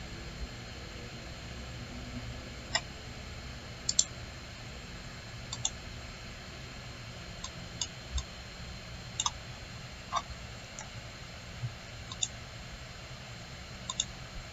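Computer mouse buttons clicking, about a dozen sharp clicks spread unevenly, several of them quick double-clicks, over a faint steady hiss.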